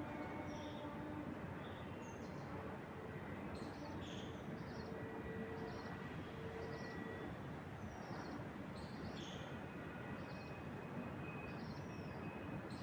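Wind moving through trees as a steady rushing hiss, with small birds giving short high chirps every second or so.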